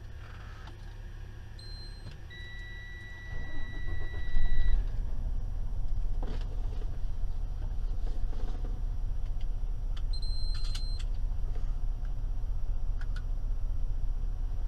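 A 2016 Freightliner semi-truck's diesel engine is started: a steady dashboard warning beep sounds while the engine cranks and catches, and then it idles steadily with a low rumble. Short beeps come before the start and again about ten seconds in, with the truck's air pressure low.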